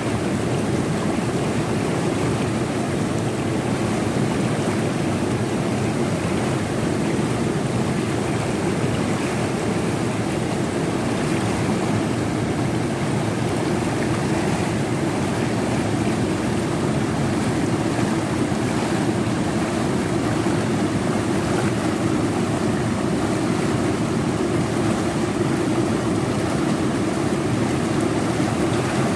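Fast-flowing river water rushing over rocks, a steady full rush with no breaks.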